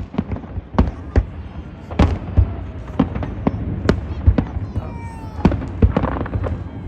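New Year fireworks going off: an irregular run of sharp bangs and booms, several a second.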